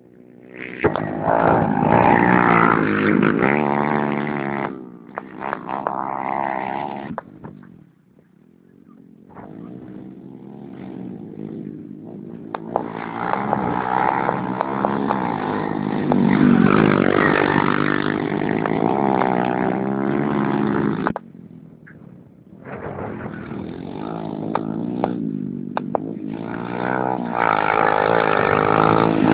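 Racing motorcycle engines revving hard in repeated loud stretches, their pitch rising and falling as the bikes accelerate and pass, with quieter gaps between. Some stretches cut off suddenly.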